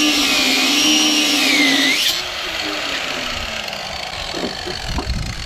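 Angle grinder cutting into a steel weld, its high whine wavering in pitch as the disc bites. About two seconds in it is released and winds down, and a few low knocks follow near the end.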